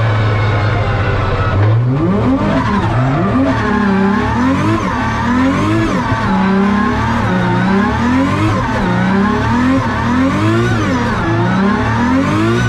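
2JZ-GTE straight-six in a GR Supra drift car. It holds a steady note for the first couple of seconds, then revs up and falls back over and over, about eight times, as it is driven hard on track.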